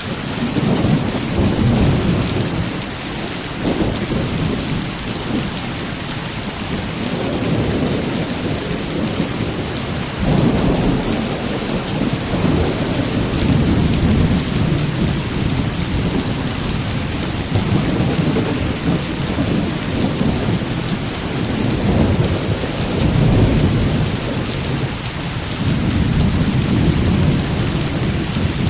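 Heavy rain falling steadily, with rolls of thunder rumbling low beneath it that swell and fade several times.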